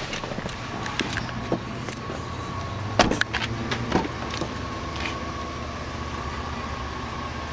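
2002 Jeep Liberty's V6 engine idling steadily, with scattered clicks and knocks and one louder thump about three seconds in.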